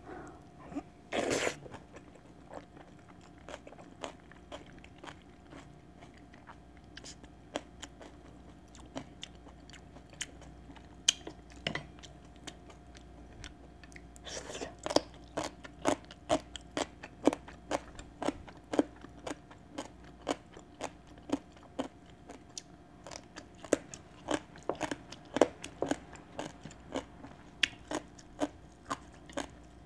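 Close-miked eating: quiet chewing of a mouthful of rice porridge with seasoned squid jeotgal, then from about halfway through, steady crisp crunching, roughly two crunches a second, as a yellow piece of crunchy food is bitten and chewed.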